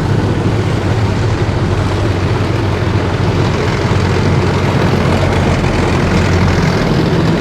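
Engines of heavy military vehicles in a column driving past, a loud steady rumble with no break.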